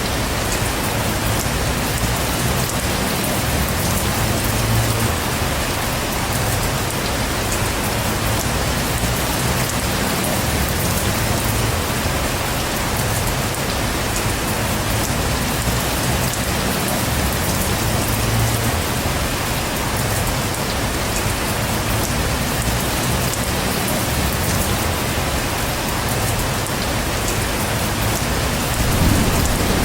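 Heavy rain falling steadily, a dense even hiss, with a low rumble underneath that swells near the end.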